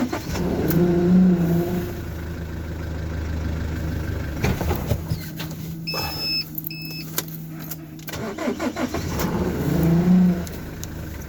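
GAZelle Next van engine in a hard cold start at minus 25: it catches and revs up in the first couple of seconds, settles to a steady run, then is revved up again near the end. Two short high electronic beeps sound about halfway through.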